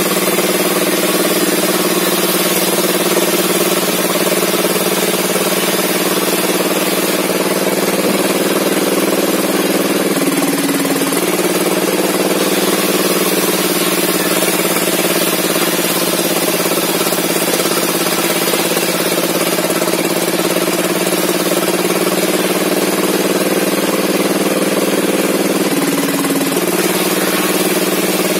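An engine running steadily. Its pitch rises briefly twice, about ten seconds in and again near the end.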